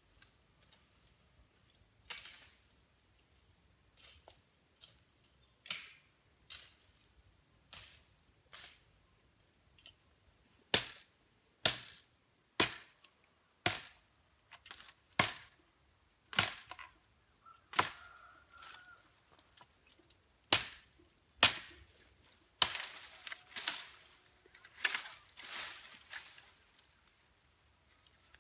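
A run of sharp cracking strikes, sparse at first and then loud and about one a second from roughly ten seconds in, with a quicker, busier flurry of knocks and rustling near the end.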